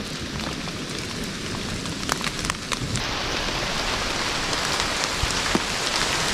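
Steady rain falling in a forest, with a few single drops striking close by in the first three seconds; the rain grows louder about three seconds in.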